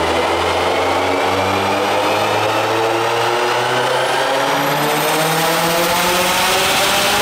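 Turbocharged flat-four engine of a Subaru WRX STI running on a chassis dyno, its revs climbing slowly and steadily. A faint high whine rises along with it.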